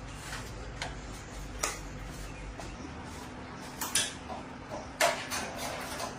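A run of sharp clicks and metallic knocks, a few at a time, the loudest cluster about five seconds in. A low hum stops partway through.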